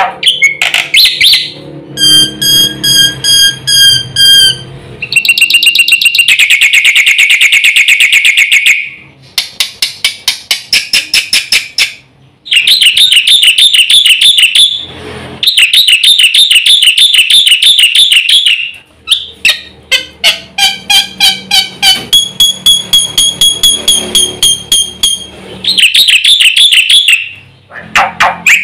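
Black-winged starling (jalak putih) singing a loud, fast, varied song full of fill-in phrases: strings of rapid repeated notes and trills alternating with clear whistled notes, broken by brief pauses.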